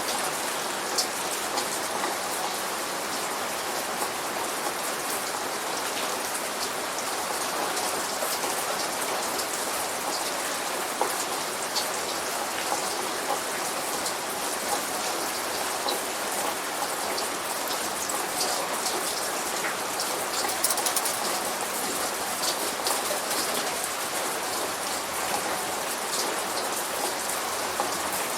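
Steady light rain falling, an even hiss with many small drop patters on a surface.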